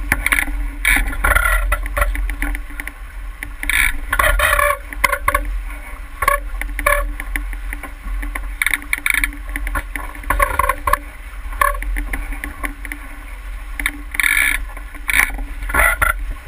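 Water slapping and splashing irregularly against a boat's hull, over a steady low rumble of wind on the microphone.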